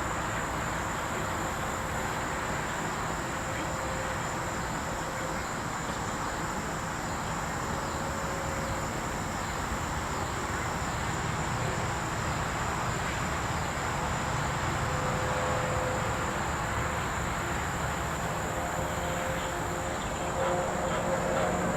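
Evening insect chorus, a steady high-pitched drone of crickets or katydids, over a low steady rumble.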